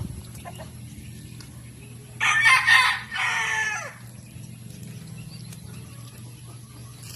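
A rooster crowing once, starting about two seconds in and lasting under two seconds, its end falling in pitch, over a steady low hum.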